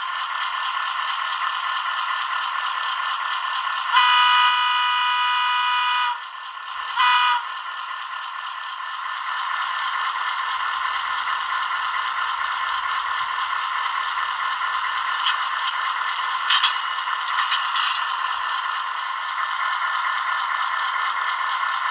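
Model Victorian Railways T class diesel locomotive's DCC sound decoder playing diesel engine sound through its small onboard speaker, with a light rattle from the model running on track. Its horn sounds a long blast about four seconds in and a short one about a second later.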